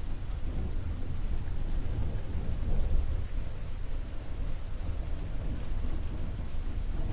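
Steady rain with a deep, continuous low rumble beneath it, swelling slightly about three seconds in.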